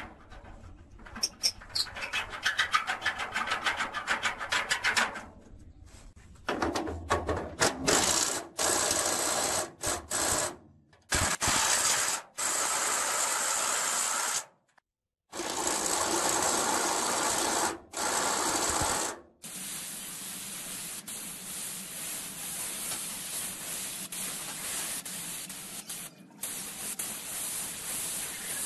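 Tool work on rusty metal, in edited segments: first a fast run of rubbing or scraping strokes, then several bursts of noise that cut in and out sharply, then a steady hiss to the end.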